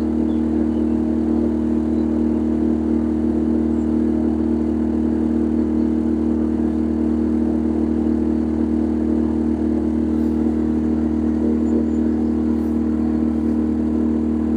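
Boat engine running at a steady speed, a constant low drone that holds one pitch.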